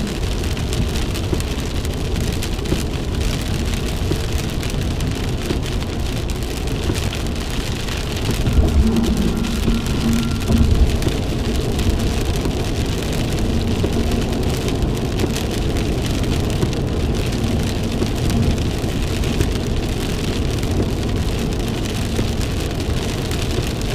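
Heavy rain and road spray hitting a moving vehicle, heard from inside the cab as a steady wash of noise. About a third of the way in it grows louder and a low steady hum joins it.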